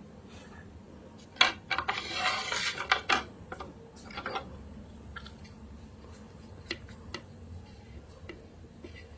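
Chalk and clay paste being worked in a clay pot: a cluster of crunchy scrapes and sharp clicks from about one and a half to three seconds in, then scattered light ticks.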